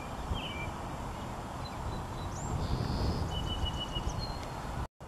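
Small birds giving short, high chirps and whistles, scattered through the middle, over a steady low outdoor rumble. The sound cuts out completely for a moment near the end.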